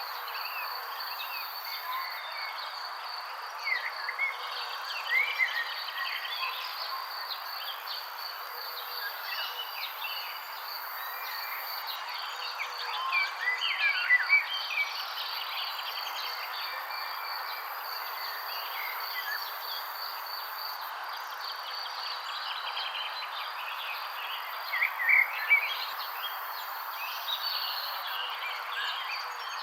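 Several birds chirping and singing in short, varied phrases over a steady high trill of insects, with louder bursts of chirping about halfway through and near the end.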